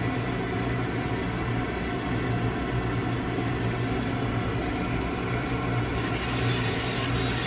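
Coffee roaster running with a steady low motor hum; about six seconds in, a bright hiss joins it.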